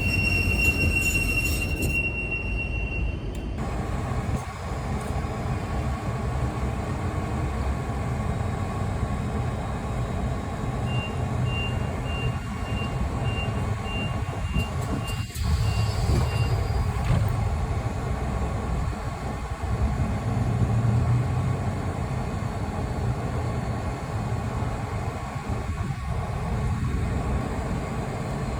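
Belgian coast tram at its terminus: a steady low rumble of the tram and its equipment, with a steady high warning tone that stops a few seconds in, then a run of short high beeps about two a second in the middle.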